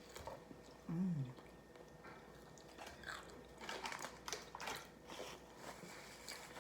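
Close-up eating sounds: chewing and crunching food, with a cluster of crackly clicks in the middle. A short falling "mm" hum from a voice about a second in.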